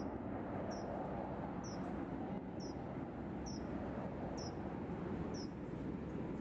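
A small bird calling from bare vines and shrubs: a short, high, down-slurred chirp repeated about once a second, over steady outdoor background noise.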